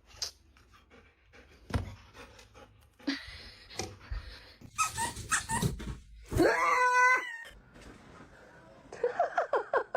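A pet animal's long, drawn-out whining cry about six seconds in, after scattered knocks and rustles. A run of short cries follows near the end.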